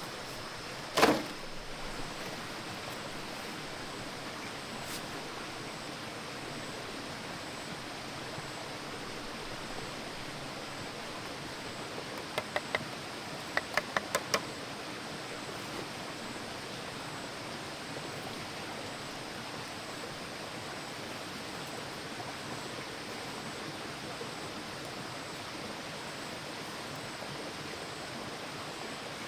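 A steady, even rushing noise, with a single sharp knock about a second in and a short run of sharp taps near the middle.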